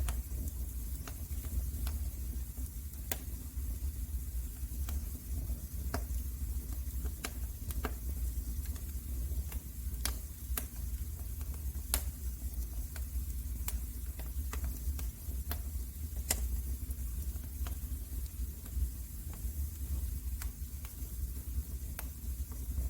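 Wood fire crackling in a fireplace: irregular sharp pops over a steady low rumble and a soft hiss.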